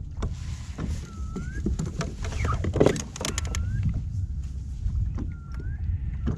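Wind and water noise around a fishing kayak, with a burst of clattering knocks from handling gear and the catch about two to three seconds in, and a short rising squeak that repeats about every two seconds.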